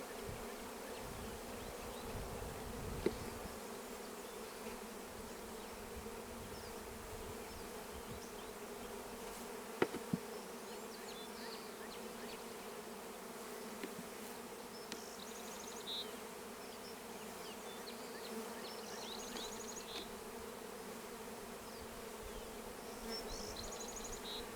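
Honeybee colony buzzing around an open hive during installation, a steady hum throughout. A couple of sharp knocks come about three and ten seconds in.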